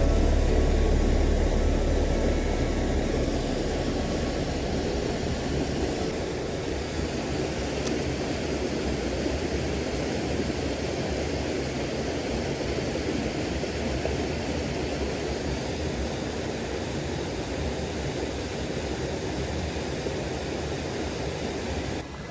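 Steady rushing of a strong-flowing mountain trout stream, with a low rumble that fades over the first few seconds.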